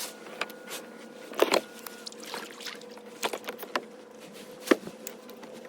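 Irregular knocks and clicks from fishing gear being handled aboard a plastic kayak, the loudest about one and a half seconds in and again near the end, over a faint steady hum.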